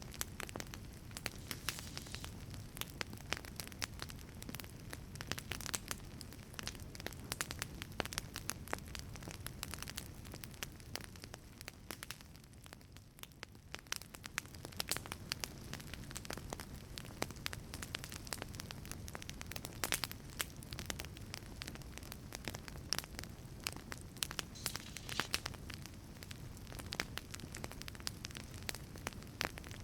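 Wood fire burning in a wood-fired pizza oven, crackling and popping with many irregular sharp snaps over a low steady rumble, dipping a little quieter about halfway through.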